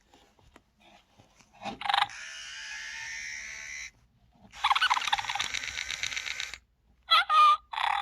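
Senario Scoozie electronic plush ferret toy playing its animal sound effects through its small built-in speaker: a hissing chatter lasting about two seconds, a second chatter with rapid pulses, then two short squeaks near the end, with another call starting right after them.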